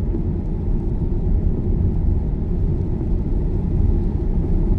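Steady low rumble of tyre and road noise inside a Tesla's cabin while cruising at about the speed limit; as an electric car it has no engine sound.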